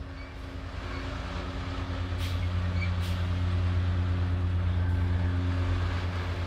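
Dump truck engine running with a steady low hum, growing louder over the first few seconds and then holding.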